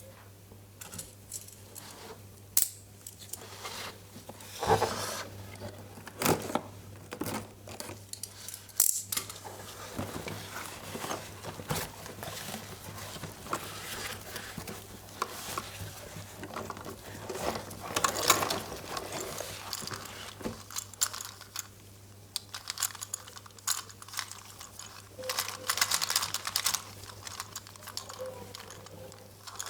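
Packaging and small plastic parts being handled: irregular crinkling and tearing of wrapping with light clicks and taps, over a faint steady low hum.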